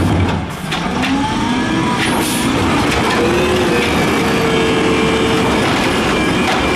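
Peterbilt 320 garbage truck's diesel engine revving hard. The revs sag briefly about half a second in, climb back up, and are then held high.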